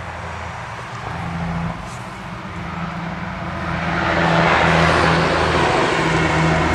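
A motor vehicle engine running steadily with a low hum, with a rushing noise that swells about three to four seconds in and stays.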